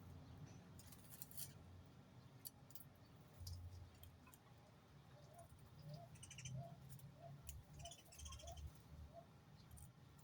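Faint bird sounds over a low hum: scattered soft clicks, and from about halfway through a run of about eight short, soft rising chirps.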